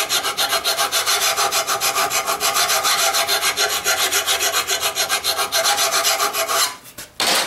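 Lawn mower blade being sharpened, metal rasping on the steel edge in rapid, even strokes. It stops shortly before the end, followed by one brief last stroke.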